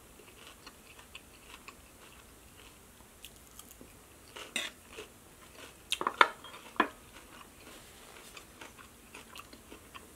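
Close-up chewing of a mouthful of crisp salad, with scattered wet clicks and crunches. There are sharper crunches about four and a half seconds in, and the loudest cluster comes around six to seven seconds.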